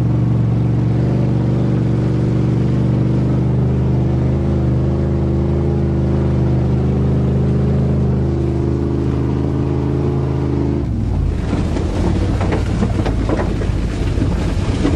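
1988 Chevrolet pickup's engine pulling steadily while driving, heard from inside the cab. About eleven seconds in the engine note drops, and rougher road and wind noise with rattles takes over.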